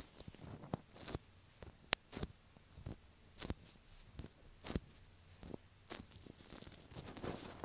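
An earphone microphone being tapped and touched right on its capsule: irregular sharp taps and sticky clicks, about one or two a second, the sharpest about two seconds in.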